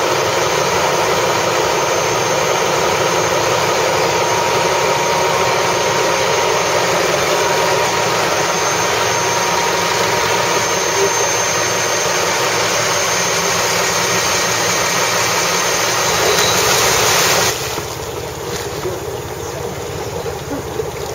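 A motor running loud and steady with a faint whine, then dropping abruptly to a lower, rougher noise about seventeen seconds in.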